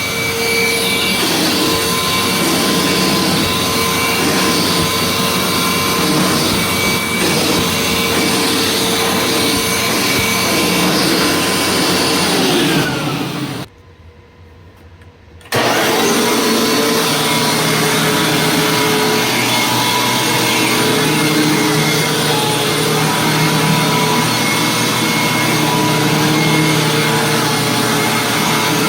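Hoover WindTunnel Plus upright vacuum cleaner running steadily, a loud motor whir with a constant hum. Near the middle the sound drops away abruptly for about two seconds, then the vacuum runs again.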